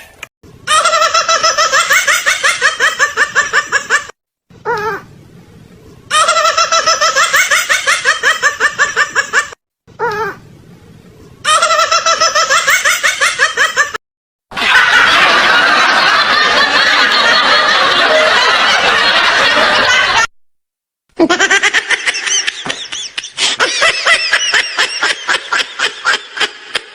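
A run of laughter sound effects, one clip after another with brief silent gaps between them. The same fast, pulsing laugh plays three times in the first half, followed by a denser, fuller burst of laughing lasting about six seconds, then another pulsing laugh near the end.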